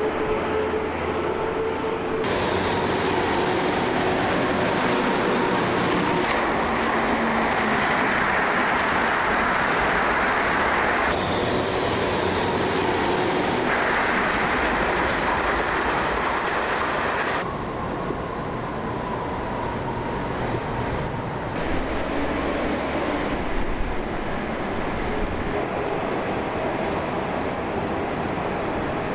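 Passenger train running through a station at speed: a loud rush of wheel-on-rail noise starts about two seconds in, lasts around fifteen seconds and drops off sharply as the last car passes. A quieter bed of noise with a thin steady high tone is left behind.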